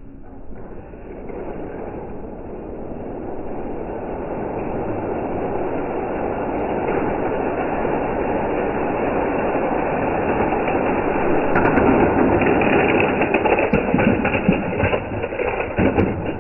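Die-cast Hot Wheels toy cars rolling down a plastic race track, a continuous rumble that grows steadily louder, with several sharp clicks and knocks near the end as the cars reach the bottom.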